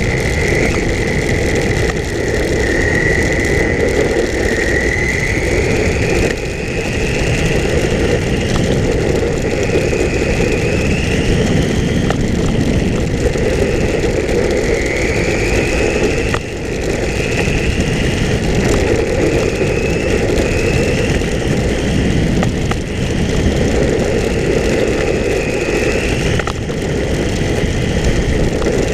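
Electric motor of an RC10L radio-controlled pan car whining as it laps, the high whine rising in pitch under acceleration and dropping back again and again, over a steady rumble of tyres and wind.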